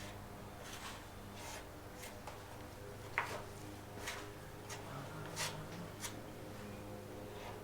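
Quiet, intermittent scraping and rubbing of a spreader working freshly mixed body filler, with one sharp click about three seconds in, over a steady low hum.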